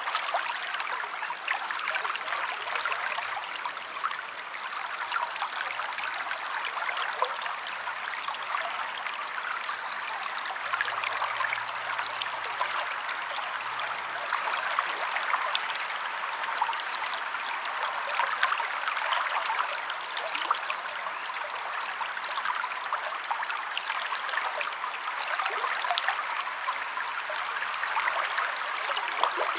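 River water flowing steadily, a dense rushing full of small splashes.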